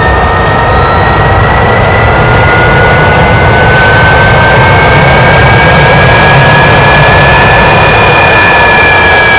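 Rolls-Royce Viper C201 turbojet engine running loud: a steady rushing roar with a high twin-toned whine that climbs slowly and eases back a little near the end.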